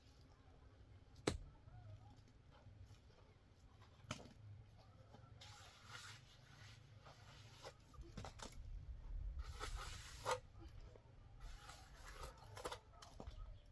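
Faint handwork sounds: scattered sharp knocks and clicks, the sharpest about a second in, with two stretches of rustling or tearing, one in the middle and one about two-thirds of the way through.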